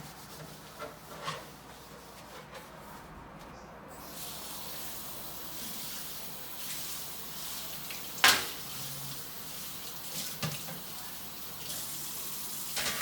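Kitchen tap water running into a sink during dishwashing, a steady hiss that starts about four seconds in. A sharp clatter of a utensil or dish about eight seconds in, with a few lighter knocks.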